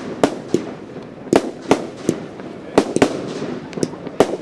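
Fireworks going off in an irregular barrage: about ten sharp bangs and reports, some in quick pairs, over a steady crackling rumble of further fireworks.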